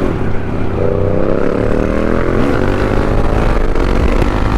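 Motorcycle riding at speed: a heavy wind rumble on the microphone with a steady engine note that comes in about a second in and slowly drops in pitch.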